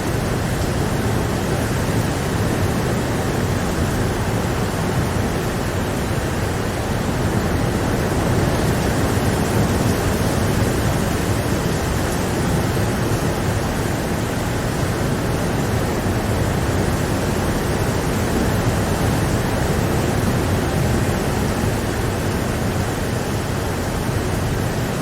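Steady rain, heard as a continuous even rush with most of its weight in the low and middle range, without separate drops or thunder.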